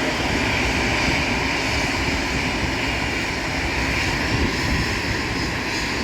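Airbus A320 jet noise running steadily: a constant rushing sound that neither rises nor falls.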